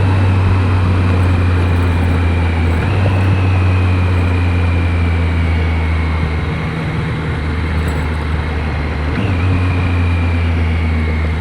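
Triumph Street Triple 765 RS's three-cylinder engine slowing down off the highway, its pitch falling gradually, then jumping up sharply with a downshift about three seconds in and again about nine seconds in. Heard through a microphone inside the rider's helmet, with steady wind and road noise.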